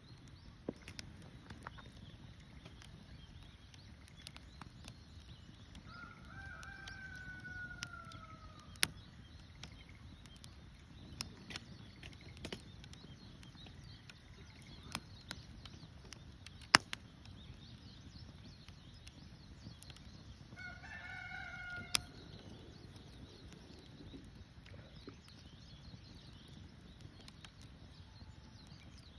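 A rooster crowing twice, one long, slightly falling call a quarter of the way in and another about two-thirds through, over sharp scattered pops and crackles from a wood campfire.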